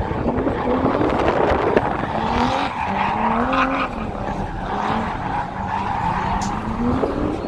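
Nissan Skyline R32 GTS-T drift car being driven hard, its engine revs rising and falling several times over the hiss and squeal of sliding tyres.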